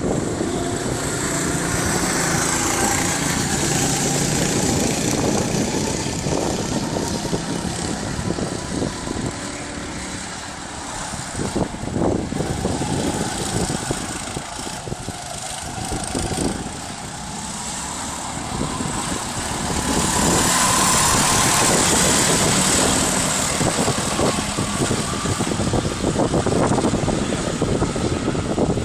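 Go-kart engines running around a track, the pitch rising and falling as the karts accelerate and brake. They grow loudest as karts pass close, about two-thirds of the way through.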